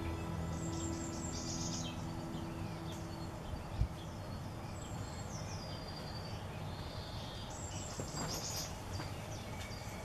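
Outdoor birdsong over a steady background hiss: short, high, rapid call phrases about a second in and again near the end, with a brief thump around four seconds in. The tail of a music track fades out during the first few seconds.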